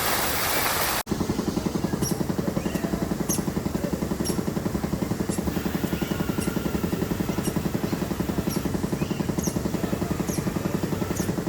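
A rushing noise stops abruptly about a second in. An engine-like motor then runs with a rapid, even pulsing throb, and short high chirps sound every half second to second over it.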